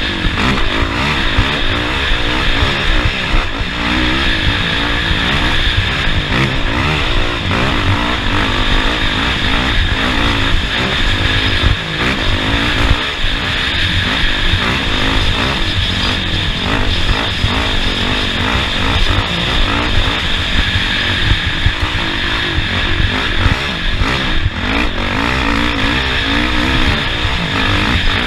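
Engine of an off-road race vehicle running hard, its pitch rising and falling again and again with the throttle, over constant rough-ground and wind noise.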